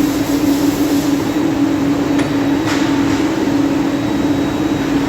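CNC turning lathe running: a loud, steady mechanical hum with one constant tone, and a couple of faint brief hisses about two and a half seconds in.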